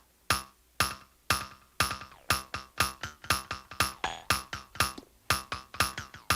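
A sampled percussive hit from the Teenage Engineering OP-Z playing on every beat, about two hits a second, fed through a Korg Monotron Delay analog delay. From about two seconds in, fainter echoes start to fill the gaps between the hits as the delay is brought in.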